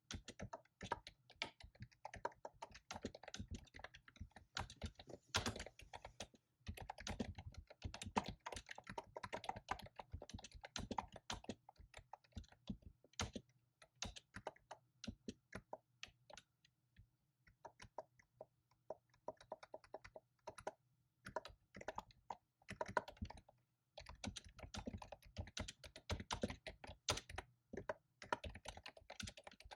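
Fast typing on a computer keyboard: keystrokes in quick runs with short pauses, thinning out for a few seconds around the middle.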